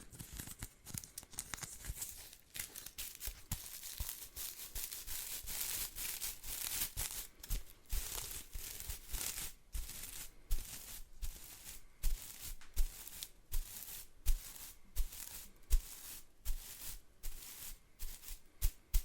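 Bristles of a household whisk broom rustling and crackling close to the microphone, at first as a dense continuous scratching. From about halfway it breaks into separate strokes a little over one a second, each with a soft low thump.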